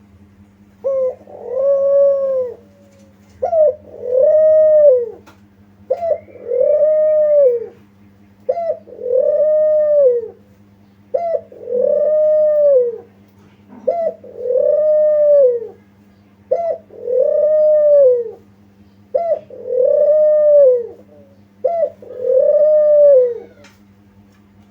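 Spotted dove cooing: nine calls in a row, about one every two and a half seconds, each a short lead-in note followed by a longer rising-and-falling coo. A steady low hum runs underneath.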